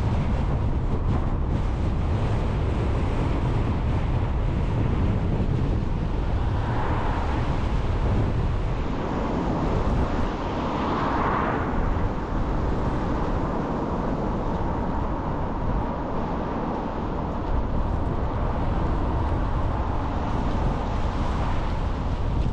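Car on the move: steady road and engine noise with wind rumbling on the microphone, and two brief swells, about seven and eleven seconds in.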